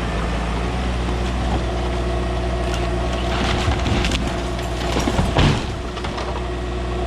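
Volvo ECR 145 DL excavator's diesel engine running steadily under work, with a couple of seconds of rough cracking, crunching noise in the middle.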